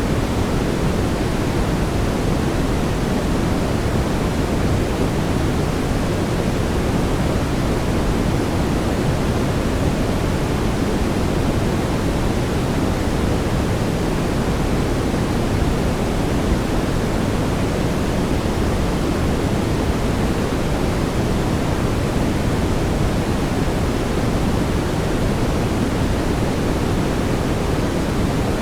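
Brown noise: steady, even, deep hiss with most of its weight in the low end and no changes.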